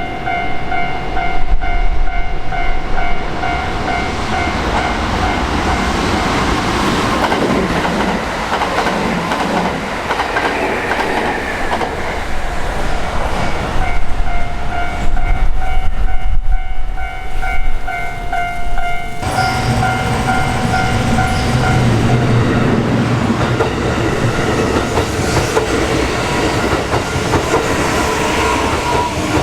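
Japanese level-crossing warning bell ringing while a Kintetsu Osaka Line train runs over the crossing, its wheels clattering on the rail joints. The bell fades under the train noise for a while and comes back. About two-thirds of the way through, the sound changes abruptly to a heavier low rumble.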